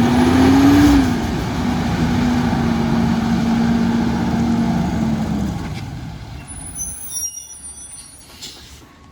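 Garbage truck running with a steady whine over a loud hiss, the whine rising slightly about a second in and dropping away after about five seconds; the sound then fades.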